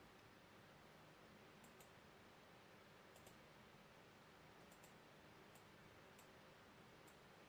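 Near silence: faint room hiss with a few small, sharp clicks scattered irregularly, about eight in all.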